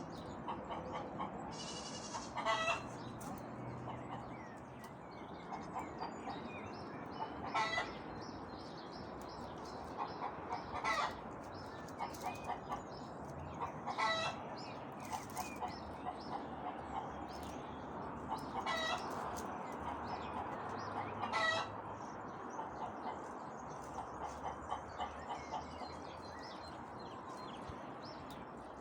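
Hens clucking: runs of quick soft clucks, with a louder, sharper call every three to five seconds.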